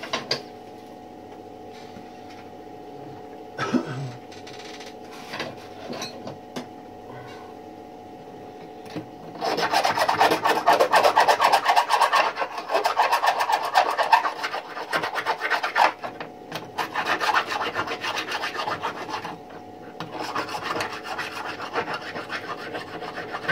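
Hand filing or rasping: rapid, dense scraping strokes that start about ten seconds in and go on for some ten seconds, after a few scattered knocks. A steady hum sits underneath.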